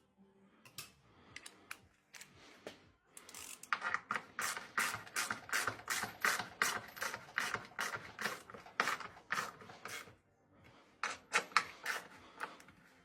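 Quick runs of sharp mechanical clicks and clatter from hand work on washing-machine parts, about two to four strong clicks a second, pausing briefly near the end before a shorter run.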